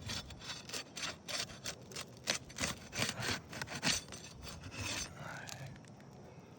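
Asphalt shingle seal strips popping loose as a narrow tool is worked under the shingles to unseal them: a run of irregular sharp pops and scrapes that thins out after about five seconds.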